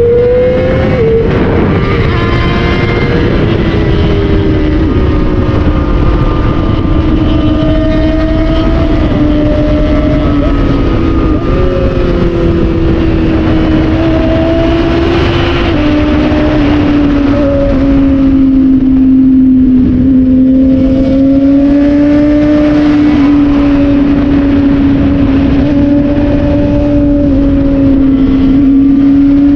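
A 600 cc inline-four sport bike engine runs hard at high revs through a canyon ride. Its pitch steps down and up a few times with gear changes and throttle, over a steady low rush of wind.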